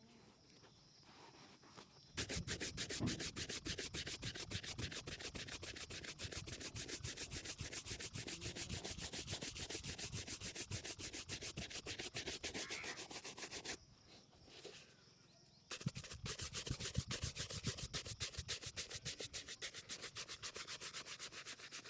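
A shoe being buffed with rapid back-and-forth scrubbing strokes, several a second, in two long runs with a pause of about two seconds between them.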